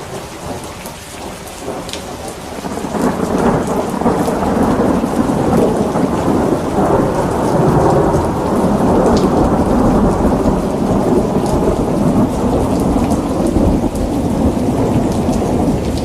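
Steady heavy rain with a long roll of thunder that swells up a few seconds in and keeps rumbling through most of the rest, with scattered raindrop ticks on top.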